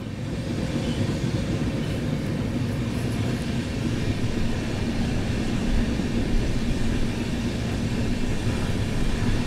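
Passenger train running, heard from on board: a steady noise of wheels on rails with a faint steady hum underneath.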